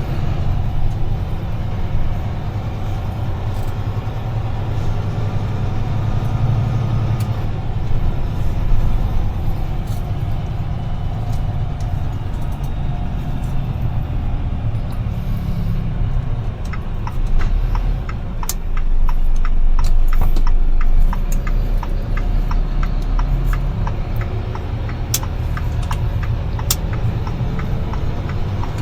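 Steady low drone of a UD Trucks Quon heavy truck's engine and road noise heard inside the cab, swelling for a few seconds past the middle. Over the last third, a regular ticking comes in at about two ticks a second.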